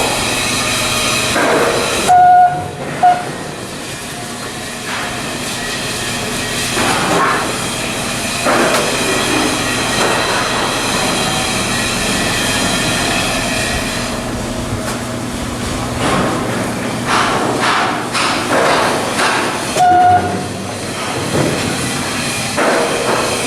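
Heavy shipyard machinery running steadily, with scattered knocks and scrapes of steel work. A short loud warning beep sounds twice about two seconds in and once more near the end.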